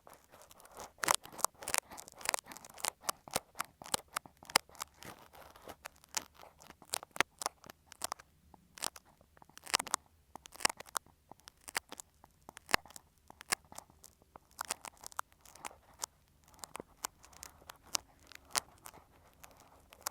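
Ear pick scraping and scratching directly on an earphone microphone, giving close, crunchy clicks and scrapes several times a second in an irregular rhythm, some strokes much louder than others.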